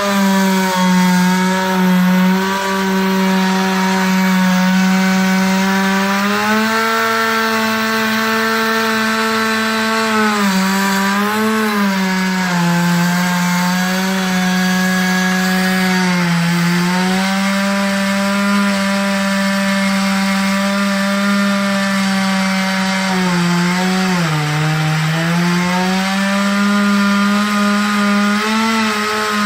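Two-stroke chainsaw running at high revs while cutting wood, its engine note steady but sagging briefly several times as the chain bites into the cut.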